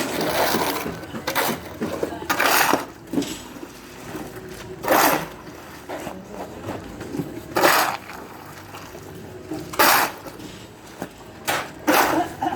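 A series of sharp impact sounds, one every one to three seconds, each lasting a fraction of a second.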